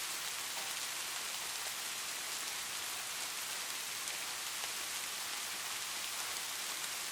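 Steady rain falling, with individual raindrops pattering on a surface. No thunder.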